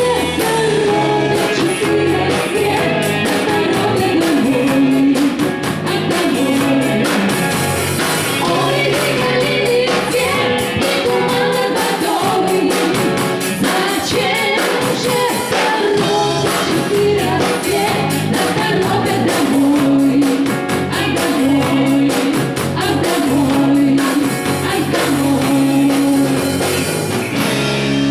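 Live band playing a rock-pop song with sung vocals over a steady drum beat, loud through the stage sound system.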